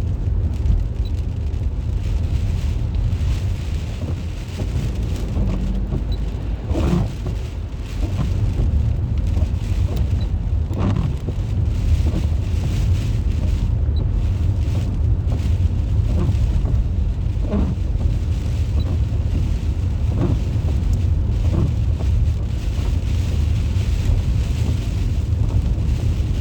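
Rain falling, with a steady low rumble of wind on the microphone and a few sharp taps scattered through.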